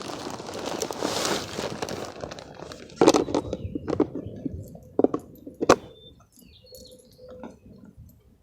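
Bird seed rustling and pouring into a bird feeder for about three seconds, then several sharp clicks and knocks as the feeder is handled.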